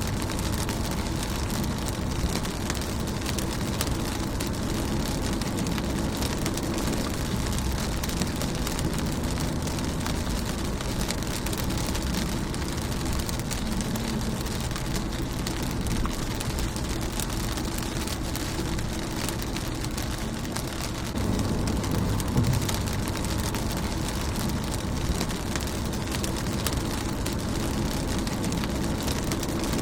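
Rain falling on a car's windshield and body, a steady patter of drops. A low rumble swells about two-thirds of the way through and eases off a couple of seconds later.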